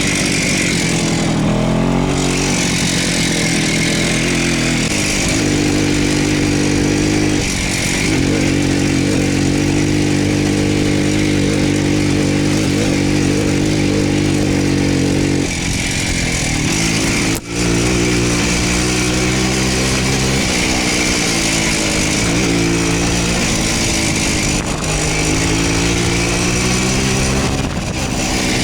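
Voskhod motorcycle's single-cylinder two-stroke engine running on the move, its pitch rising and falling repeatedly with throttle and gear changes. There is a brief sharp drop about two-thirds of the way through.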